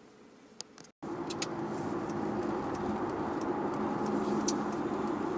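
Steady road and engine noise inside a moving car's cabin at highway speed, a constant hum with a low drone. It starts abruptly about a second in, after a near-silent moment with one faint click.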